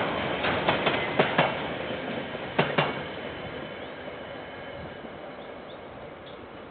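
Freight train of container wagons rolling past, its wheels clacking over a rail joint in quick pairs, the last pair about three seconds in. The rumble then fades as the end of the train moves away.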